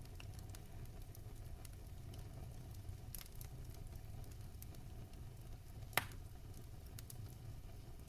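Fire burning in a fireplace, crackling steadily over a low rumble, with scattered small clicks and one loud pop about six seconds in.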